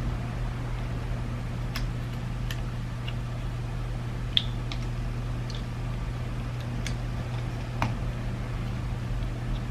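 Small plastic parts of a BMW iDrive controller being handled and fitted together during reassembly: scattered light clicks and taps, the sharpest about halfway through, over a steady low hum.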